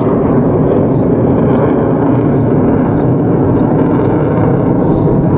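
Steady wind noise rushing over the action camera's microphone while cycling, holding at a constant level throughout.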